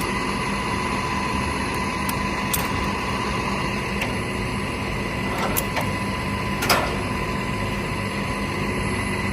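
Steady mechanical hum from the car-hauler truck's machinery as a car is let off the truck, with a few sharp clicks and one louder knock about two-thirds of the way through.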